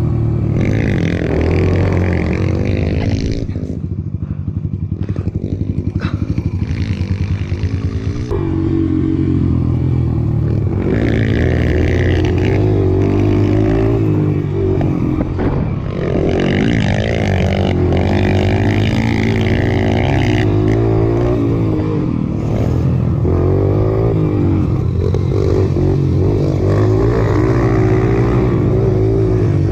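Mini dirt bike engine running with its revs rising and falling as it is ridden.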